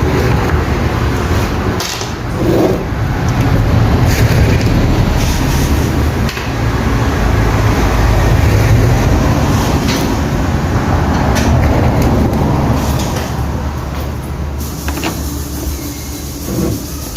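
Small electric washing-machine motor with a drill chuck on its shaft, running with a steady low hum. A few clicks and knocks come near the end as the sound eases off.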